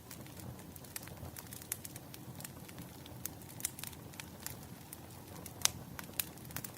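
Wood fire crackling: irregular sharp pops and snaps over a low steady rumble, with one louder pop a little over halfway through.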